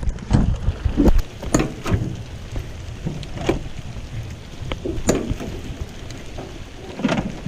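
Heavy rain falling, with irregular sharp taps of drops hitting nearby surfaces.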